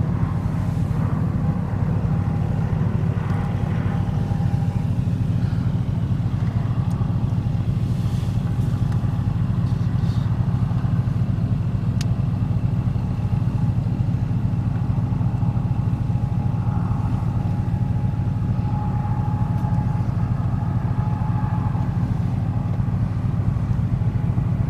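Steady low hum of a car's engine and road noise, heard from inside the cabin as the car moves along.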